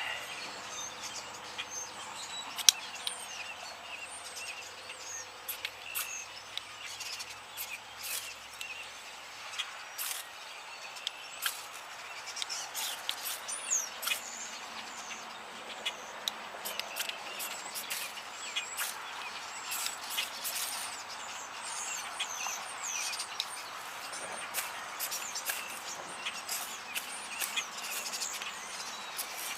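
Small birds chirping and calling all through, with repeated sharp scrapes of a striker dragged down a ferrocerium rod at irregular intervals, the loudest about three seconds in, as it is struck again and again to throw sparks into a tinder bundle.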